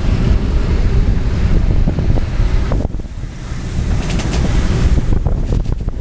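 Strong wind buffeting the microphone over the rush of waves around a sailing catamaran in rough seas. The wind rumble eases briefly about halfway through.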